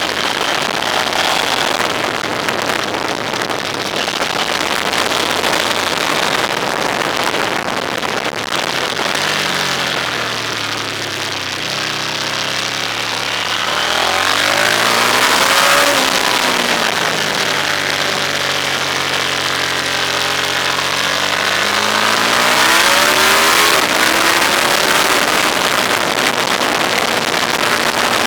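Vehicle engine heard from on board, rising and falling in pitch several times as it accelerates and slows, over steady wind and road noise.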